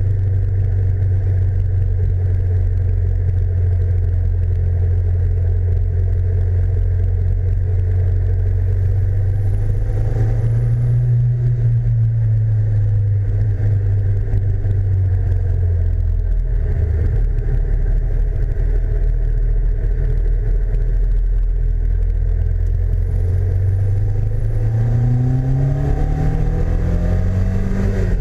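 Super Seven roadster's engine running under way, with low wind and road rush. The revs rise about ten seconds in, drop back around sixteen seconds, then climb steadily near the end as the car accelerates.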